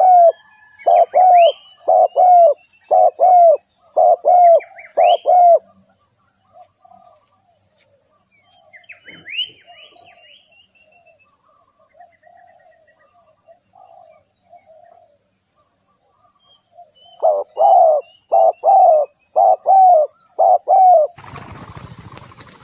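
Spotted dove cooing: a fast series of short, loud coo notes in the first five seconds and another series near the end, with softer cooing in between. Small birds chirp faintly, and a rustling noise comes in about a second before the end.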